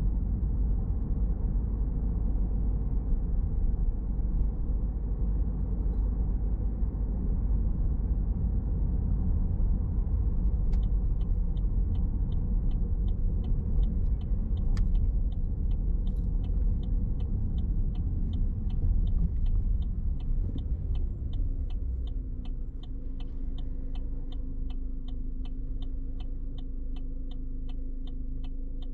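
Car driving, heard from inside the cabin as a steady low road and engine rumble. About a third of the way in, a regular clicking starts, about one and a half clicks a second, typical of a turn-signal indicator. Near the end the rumble eases as the car slows, leaving a steady low hum under the clicks.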